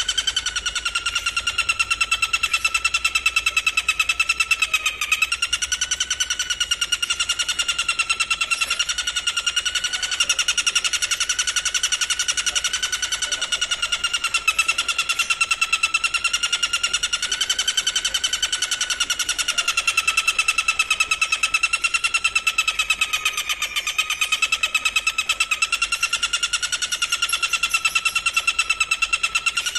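A singing insect's continuous trill: a rapid buzzing pulse on one shrill note that wavers slightly in pitch and never breaks, as used in songbird training recordings.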